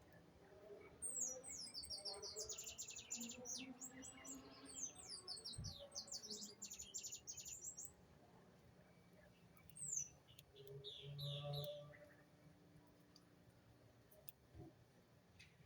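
A small songbird singing: a fast run of high, falling chirps lasting several seconds, then a shorter phrase about ten seconds in.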